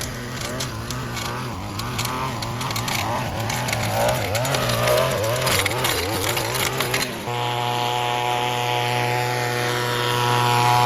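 Small petrol engine of yard-cutting equipment running, its pitch wavering, with scattered ticks and clicks; about seven seconds in it cuts abruptly to a steadier, even engine drone.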